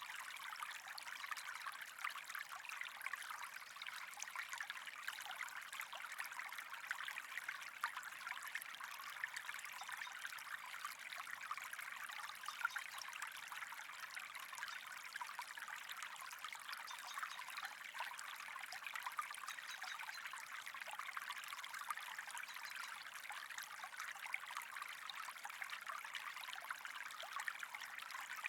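Steady trickling, bubbling water, unchanging throughout.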